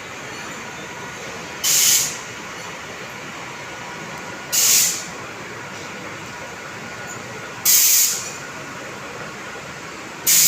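Local electric train at a station letting out short, sharp hisses of compressed air, four in a row about three seconds apart, over a steady low train and platform rumble.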